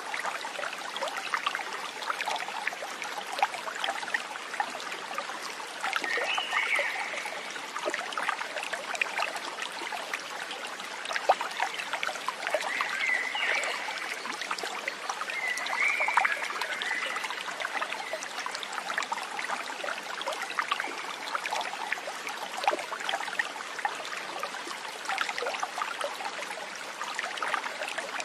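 Water trickling and babbling over stones in a small stream, a steady rush full of fine splashes. A few short animal calls sound over it, about four times.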